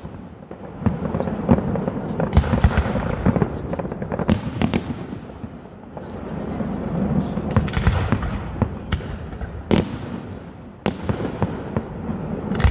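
Fireworks going off: a string of sharp bangs, with the strongest around four, ten and eleven seconds in, over continuous crackling.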